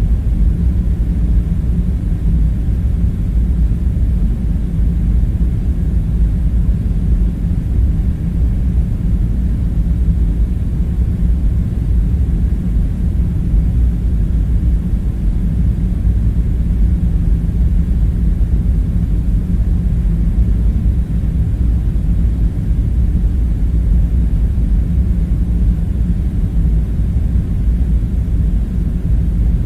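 Steady low rumble with a faint hum, an even background drone that does not change and has no distinct events in it.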